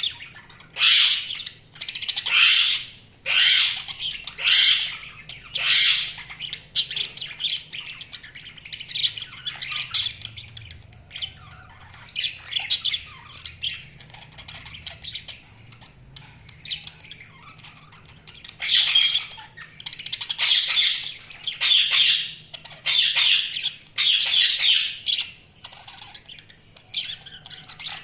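Budgerigars calling: loud, harsh chirping calls about once a second, with a quieter stretch of soft chattering in the middle before the loud calls start again.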